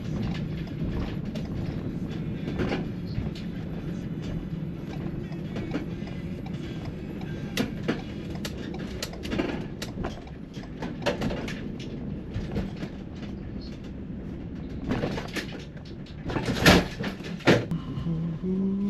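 Cargo van driving, its steady engine and road rumble heard from inside the cab, with irregular knocks and rattles and a cluster of louder knocks near the end.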